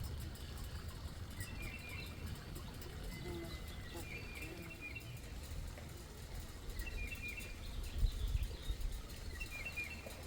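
A songbird singing the same short phrase of a few quick notes four times, about every two and a half seconds, over a low rumble of wind on the microphone that gusts harder about eight seconds in.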